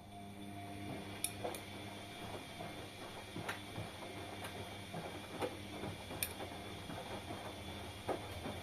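Washing machine running: a steady motor hum with several tones comes in at the start, with irregular clicks and knocks from the turning drum about once a second.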